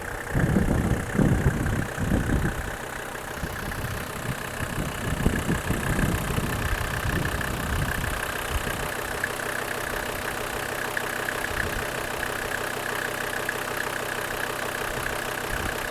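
Mercedes OM605 2.5-litre five-cylinder turbo diesel idling steadily, with a few louder low thumps in the first three seconds.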